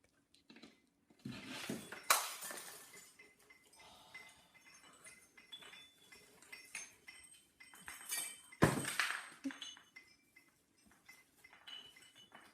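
Christmas tree ornaments clinking and rattling against each other and the branches as a cat climbs through the tree. Two sharper knocks stand out, one about two seconds in and a louder one past the middle.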